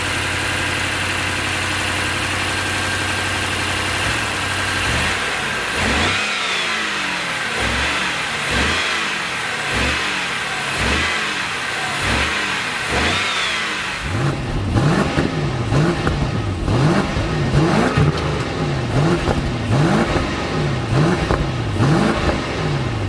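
A 2022 BMW 750i's 4.4-litre twin-turbo V8 idles steadily, then is revved in short blips about once a second. About halfway through, the sound comes from the exhaust tips at the rear, louder, with the same quick revs repeated.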